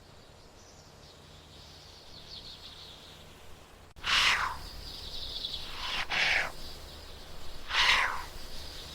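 A bird calling three times, about two seconds apart, each call a harsh downward-falling cry, over faint high chirping of birds in the background.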